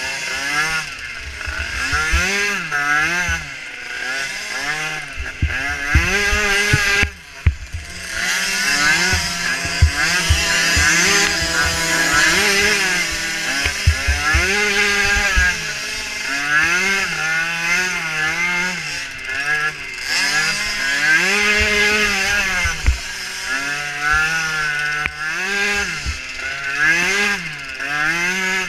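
Small engines of micro racing ATVs, revving up and down over and over as the quads race over the course. The revving nearly cuts off for a moment about seven seconds in.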